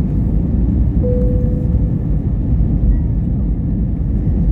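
Jet airliner cabin noise: a steady, loud low rumble of engines and airflow heard from inside the passenger cabin. A brief steady tone sounds about a second in.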